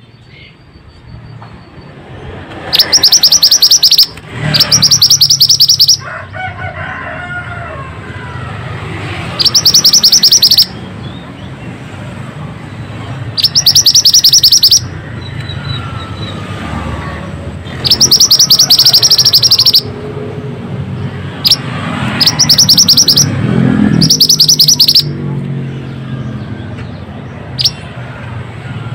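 Mantenan birdsong: short bursts of very rapid, trilled high notes, each about a second or so long, repeated seven times at intervals of a few seconds. This is a lure recording used to set a quiet mantenan singing. Fainter bird calls and a low rumble lie underneath.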